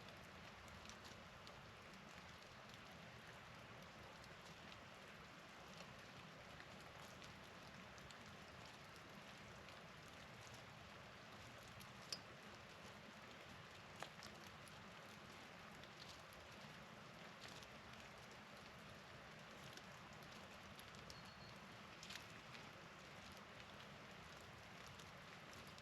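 Near silence: a faint, steady outdoor hiss with scattered soft ticks of falling precipitation, and two sharper clicks partway through.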